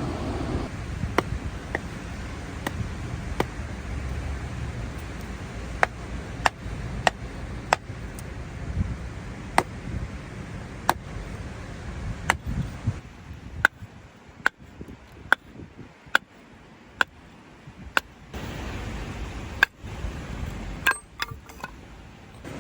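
Wood fire in a fire pit crackling, with sharp irregular pops about once a second over a low rumble.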